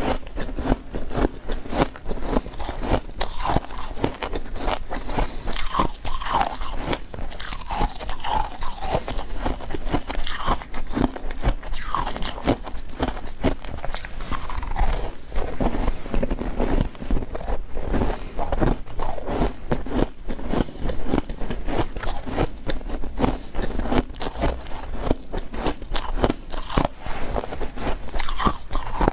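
Freezer frost being bitten and chewed, with many quick crunches following one another without a break.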